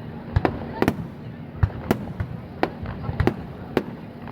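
Fireworks shells bursting in a rapid irregular series of sharp bangs, about two to three a second.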